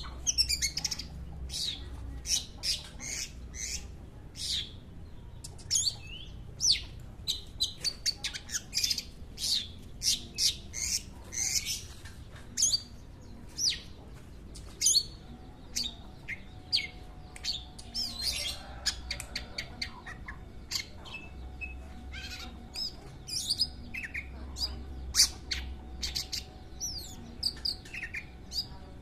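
Long-tailed shrike (cendet) singing: a fast, unbroken run of short, sharp high chirps and harsh squawky notes, several a second, with only brief pauses.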